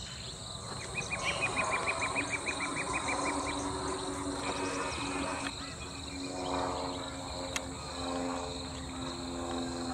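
A bird calls a quick run of about a dozen repeated notes, about five a second, over a steady drone of insects. About six seconds in, a low steady hum with several tones comes in underneath.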